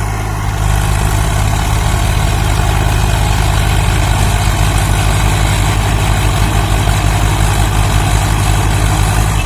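Swaraj 855 FE tractor's diesel engine running steadily, with a low, even throb.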